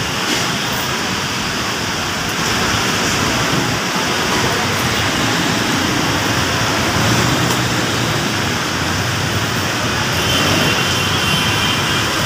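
Heavy pouring rain, a steady loud hiss, mixed with the rumble of city traffic.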